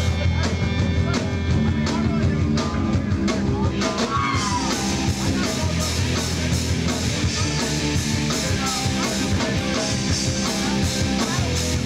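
Live rock band playing an instrumental introduction on electric guitar, bass and drum kit.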